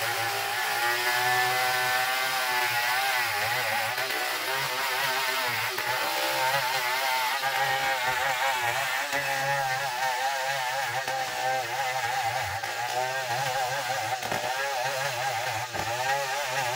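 Trio band sawmill running as it cuts a long ulin (Bornean ironwood) log: a steady machine drone whose pitch wavers up and down throughout.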